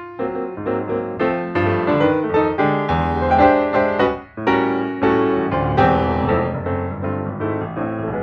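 Piano music: a run of struck notes and chords ringing on, with a short break a little over four seconds in.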